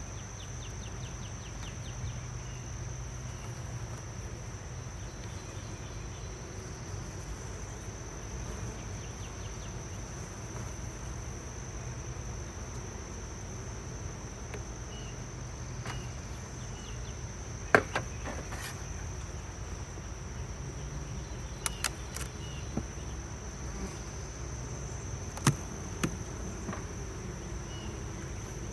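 Honey bees buzzing at an open hive, with a steady high-pitched insect trill behind them. A few sharp knocks break in, the loudest about two-thirds through and again near the end.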